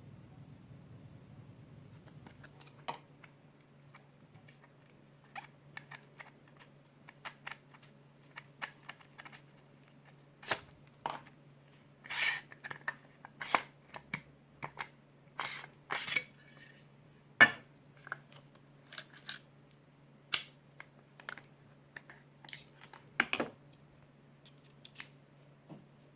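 Precision screwdriver set being handled: irregular small clicks and taps of hard metal and plastic parts, sparse at first and busier in the second half, with one sharper click a little past the middle, over a faint steady low hum.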